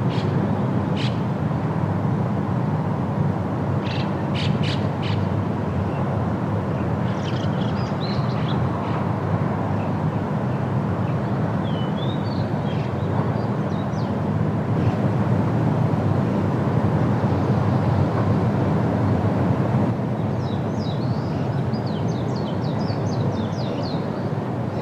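Steady wind rushing through trees, with small birds chirping on and off above it and a quick trill of repeated notes near the end.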